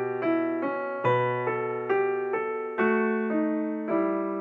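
Background music: a slow solo piano melody, single notes struck about twice a second, each ringing and fading.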